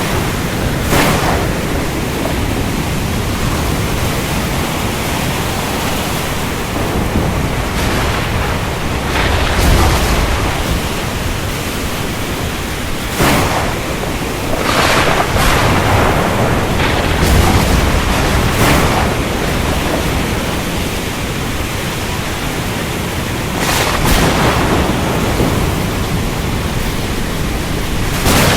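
Storm over the ocean: a steady rush of surf and rain, broken by several sharp crashes and deep rumbles of thunder that swell and fade.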